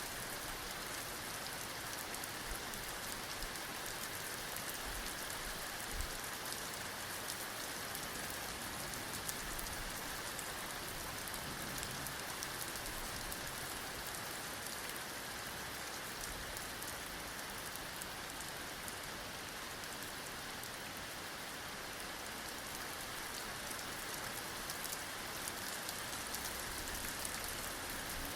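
Heavy rain falling steadily: an even, dense hiss of drops with no change in strength.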